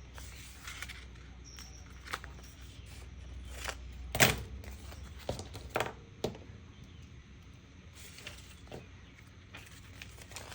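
Scattered light taps, clicks and rustles of paper and craft tools being handled at a work table, with one sharper knock about four seconds in, over a steady low hum.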